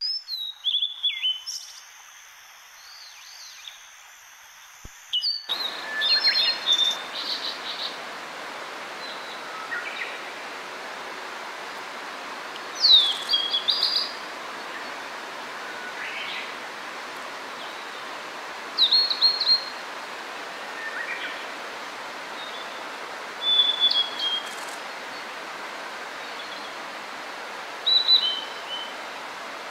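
Blue-and-white flycatcher singing: loud, clear whistled phrases that slur downward, repeated every five or six seconds, with fainter calls from other birds between them. A steady hiss runs underneath from about five seconds in.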